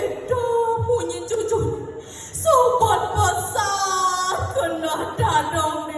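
A solo voice singing a song within a Balinese folk-story telling: held notes that slide and waver, in short phrases with a brief break around the middle. Soft low thumps sound beneath it.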